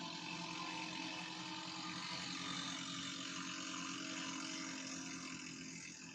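Engines of modified walk-behind racing tractors running, several engine tones overlapping steadily and easing off a little near the end.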